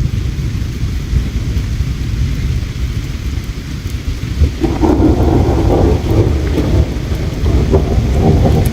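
Flowing river water with a deep, steady rumble, and a campfire crackling in sparse sharp pops. About halfway through, a louder rushing layer comes in.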